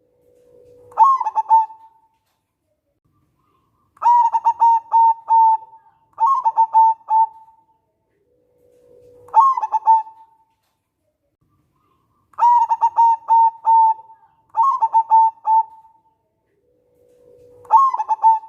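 Zebra dove (local perkutut) cooing in repeated phrases: each is a quick run of short, clipped coos, several opening with a lower drawn-out note, about seven phrases with pauses between them.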